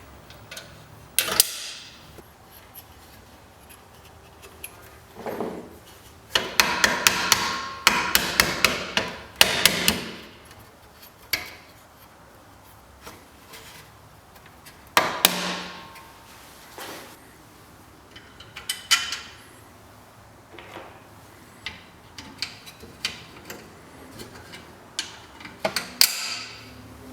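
Hand tools at work: scattered sharp knocks and clicks, with a run of quick taps like light hammering between about six and ten seconds in.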